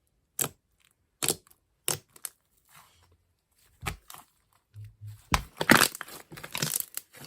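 Iceberg slime's hardened crust crackling and crunching as it is pressed: a few separate cracks, then a dense run of crackling from about five seconds in.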